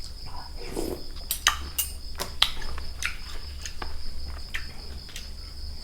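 Utensils and dishes clicking and clinking during a meal: a dozen or so sharp, separate clicks. A steady high insect trill runs underneath.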